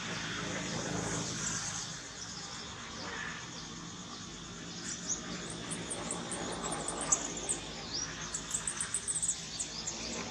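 Small wild birds chirping in quick runs of short high notes, mostly in the second half, over steady outdoor background noise.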